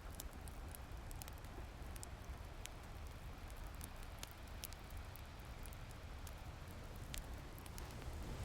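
Rain and crackling fireplace ambience: a steady hiss of rain with a low rumble, and scattered sharp crackles and pops from the fire.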